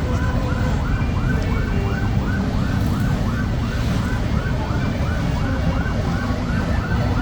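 Siren yelping in a fast, repeating rise and fall, about three sweeps a second, over a steady low rumble.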